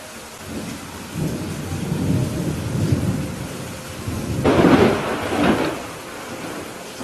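Steady rain with thunder. A low rumble builds about a second in, then a louder, sharper thunderclap comes about halfway through and dies away within a second or two.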